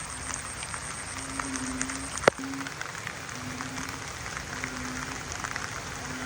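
Heavy rain falling, with many separate drops ticking on a surface. A short low note repeats roughly once a second. About two seconds in there is one sharp, loud knock.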